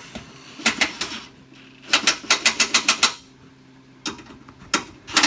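Bursts of quick metallic clicking from a wrench tightening bolts under the truck: a few clicks about a second in, a run of about seven a second, then single clicks and a last quick cluster near the end.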